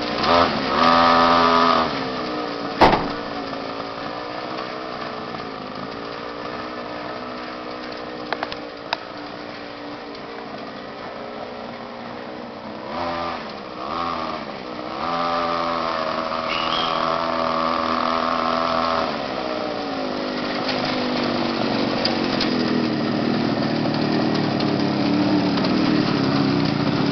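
Small motorcycle engine running and revving, its pitch rising and falling several times, with a sharp click about three seconds in.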